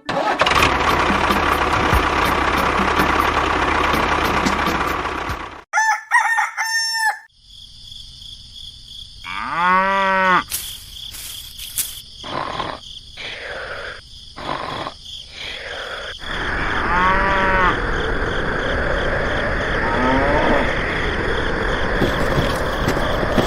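A rooster crowing several times, each crow a rising-and-falling call. A steady rushing noise takes up the first few seconds.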